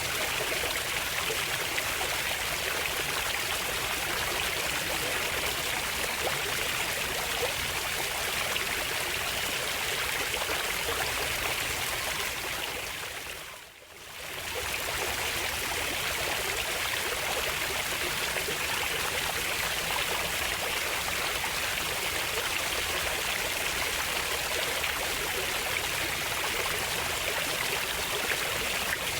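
Steady rushing and trickling of a flowing stream. About halfway through it fades briefly to near silence and swells back up to the same level.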